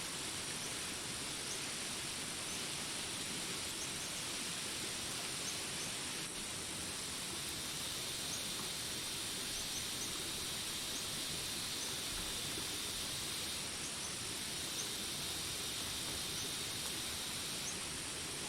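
Jungle rain ambience: steady rain hiss with short, high chirps scattered throughout. A high, steady buzz comes in about eight seconds in and stops near the end.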